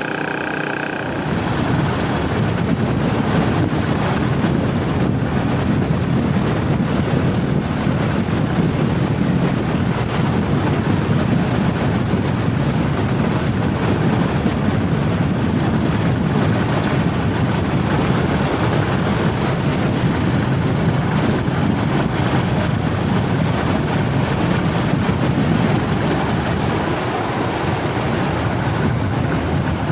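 Loud, steady rushing wind noise buffeting the microphone, with the rumble of travel on a moving vehicle underneath.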